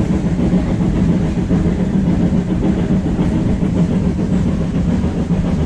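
Train's diesel engine running steadily under load on an uphill climb, a steady low drone.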